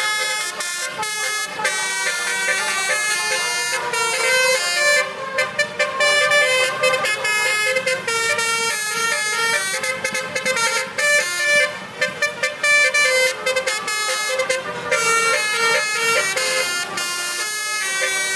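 Basuri melody air horns on a truck playing a tune: a run of held notes that step up and down in pitch, broken in places by quick staccato bursts.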